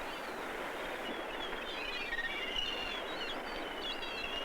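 Small birds chirping and twittering over a steady background hiss.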